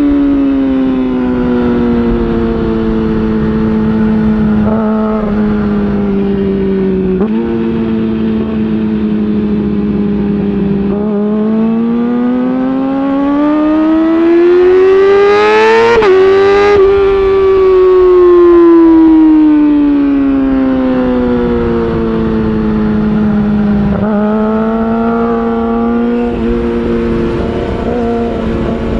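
Yamaha R6 inline-four engine through an Akrapovic titanium exhaust, revs falling off and holding, then climbing in one long pull to a sudden shift about halfway through before winding down again. A couple of short jumps in pitch break the slow stretches, the engine being blipped on downshifts.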